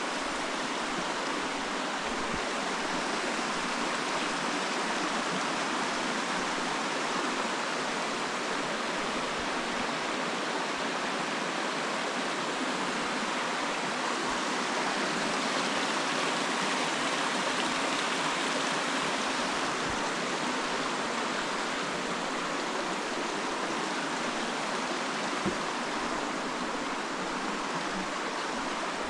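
Steady rushing of flowing water from a forest stream, swelling slightly midway.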